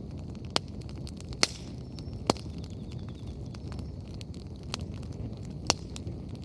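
Wood bonfire burning: a steady low rush of flames under frequent small crackles, with a few sharp pops of burning firewood, the loudest about a second and a half in.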